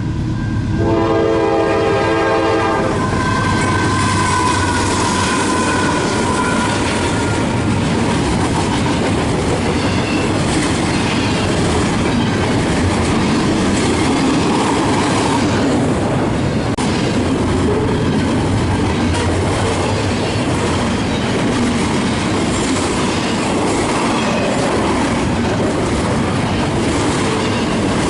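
Locomotive air horn sounding one chord for about two and a half seconds near the start, then a train passing close with steady wheel rumble and clickety-clack; a high tone slides down over the few seconds after the horn.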